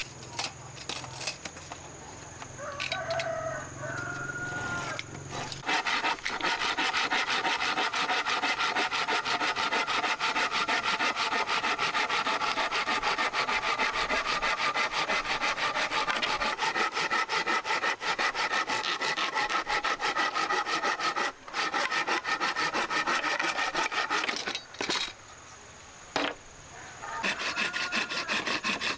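A fast, steady rasping scrape, like something being rubbed or sawn, that starts about six seconds in, breaks off briefly twice near the end, then resumes.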